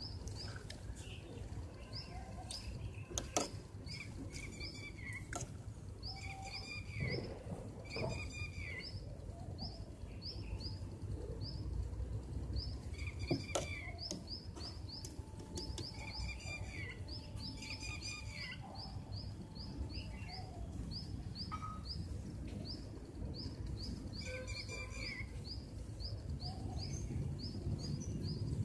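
Small birds chirping in the background: runs of quick, high, repeated chirps with occasional groups of lower calls. A few sharp clicks stand out here and there.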